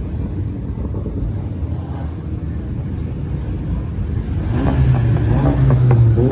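Car engine running with a steady low rumble, growing louder about four and a half seconds in.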